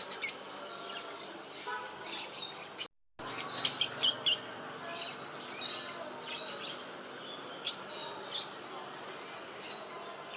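Pet cage birds chirping in quick, short high chirps that come in clusters, busiest just after the sound cuts out briefly about three seconds in.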